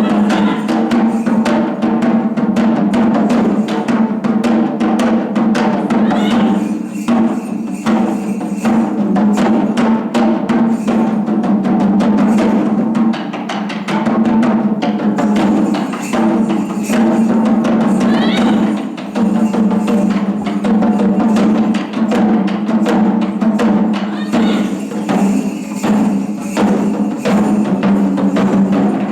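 Japanese taiko drums played live in a dense run of rapid strokes, with sharp wooden clicks among the drum hits, over a steady low held tone.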